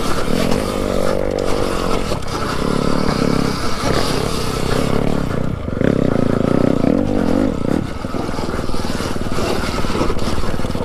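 Dirt bike motor running and revving up and down along a trail, with some scraping and clattering.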